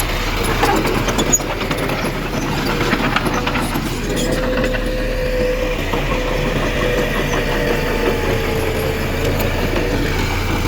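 Heavy earthmoving machine's diesel engine running steadily with a wavering whine, and a scatter of clicks and knocks in the first few seconds.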